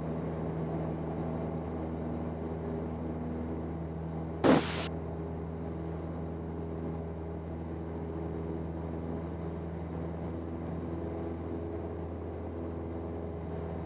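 1977 Cessna 172N's four-cylinder Lycoming engine and propeller at full power in the climb just after takeoff, a steady drone heard from inside the cabin. A brief, loud sound cuts in about four and a half seconds in.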